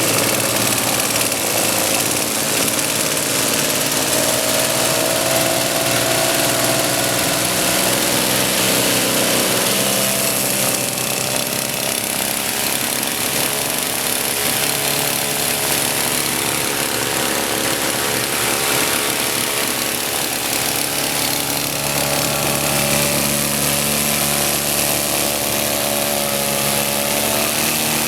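Engine of a homemade light aircraft running, loud and continuous, with its speed shifting up and down a few times.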